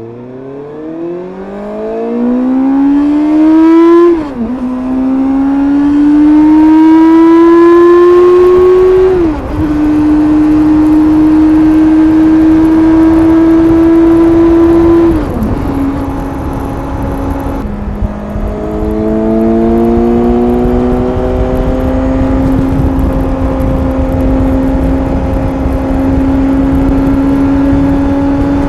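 Suzuki GSX-S750's inline-four engine through its stock exhaust, revving up through the gears with two quick upshifts in the first ten seconds, each dropping the pitch before it climbs again. It then holds steady cruising revs, dipping twice around the middle, under a steady rush of wind.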